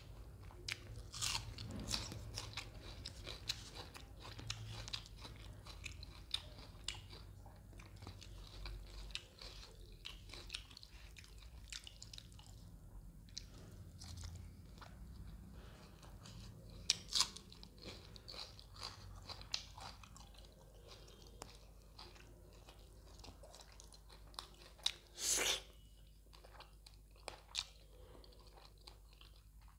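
Close-miked chewing of fish curry and roti, with many small crisp crackles and several sharper crunches, the loudest about 25 seconds in.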